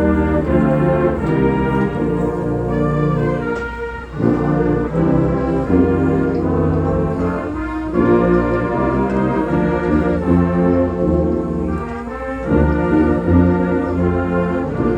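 Marching band brass playing a slow anthem: full trumpet and trombone chords, each held for a second or two before moving to the next, with brief breaths between phrases.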